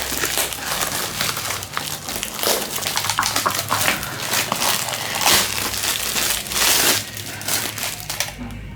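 Plastic packaging crinkling and rustling in irregular bursts as a new spare washing-machine gearbox is handled, stopping near the end.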